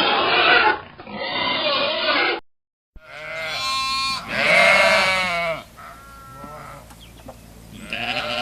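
A rough, noisy animal sound cuts off about two seconds in. Then a goat bleats, one long loud bleat followed by fainter, shorter bleats.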